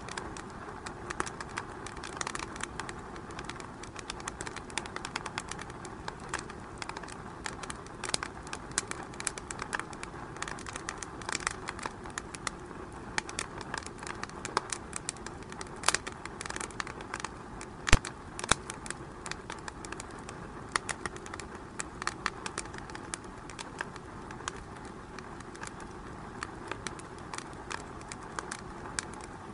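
Fire in a fireplace crackling steadily, with many small irregular pops over a low hiss and one sharp, loud pop about 18 seconds in.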